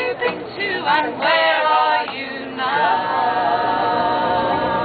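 Women's voices singing a sea shanty in unaccompanied harmony, closing on a long held note in the second half.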